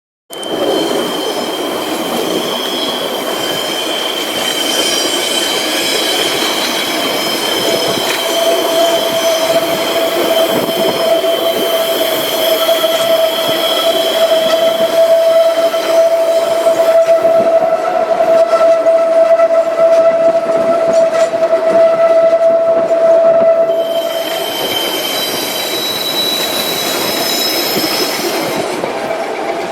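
Train rolling along the rails, its steel wheels squealing in long, steady, high-pitched tones that fade out and come back partway through.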